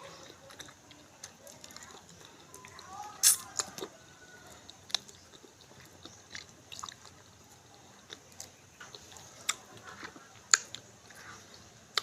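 Close-up eating sounds: chewing with scattered sharp crunches and bites, the loudest about three seconds in and another near the end.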